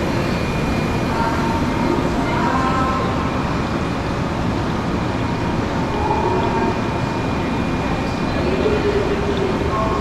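Steady rushing noise with faint, indistinct voices in the background.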